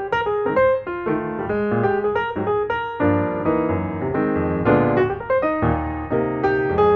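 Background piano music: a quick run of notes over chords and a bass line.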